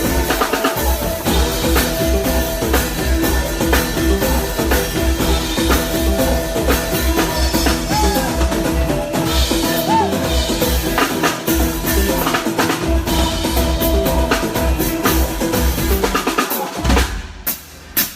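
Live band playing with the drum kit to the fore: a steady bass-drum beat with snare and rimshot hits under held instrument notes. The music drops out briefly near the end.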